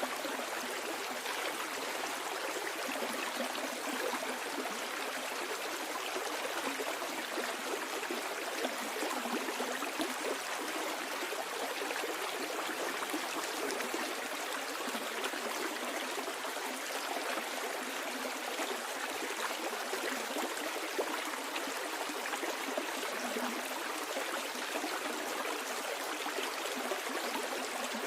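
Stream water flowing steadily downstream, an even continuous rush and babble.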